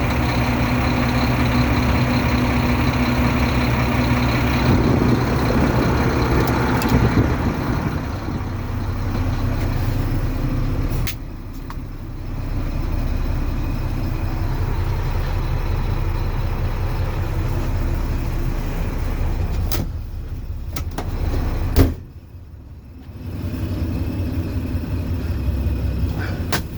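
2008 Mack dump truck's diesel engine running steadily, rising a little for a few seconds early on. There are a few sharp clicks, and one louder knock about four-fifths of the way through, after which the sound drops away briefly.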